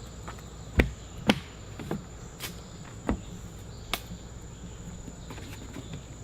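Outdoor ambience with a steady high insect drone, like crickets, and about half a dozen short scattered knocks or clicks.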